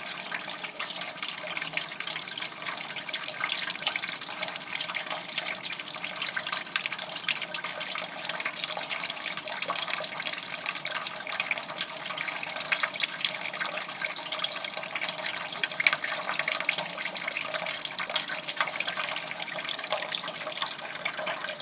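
Kitchen tap running steadily into the sink, water splashing.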